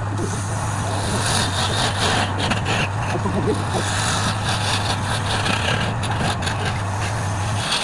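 Wood lathe running with a steady motor hum, under a rough scraping hiss that comes and goes as the spinning workpiece is worked; the hum cuts off near the end.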